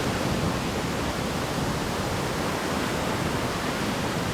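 Steady rushing noise of water and wind on a jet ski ride, even and unbroken, with no clear engine note.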